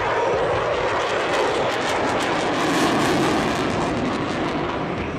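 F/A-18 Hornet fighter jet passing overhead: the roar of its twin jet engines swells to a peak about three seconds in, with a ragged crackle, then eases off.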